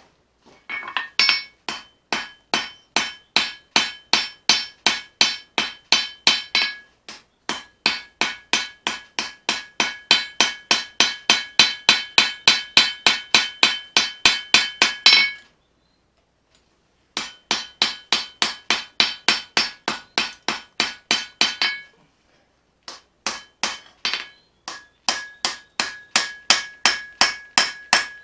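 Hammer blows on an anvil forging leaf-spring steel into a knife blade. The strikes come steadily at about three a second in four runs, with short pauses between them, and each blow rings with a clear metallic tone.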